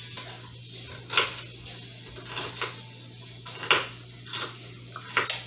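Kitchen knife chopping vegetables on a cutting board: a handful of separate, irregular knocks, the sharpest near the end, over a steady low hum.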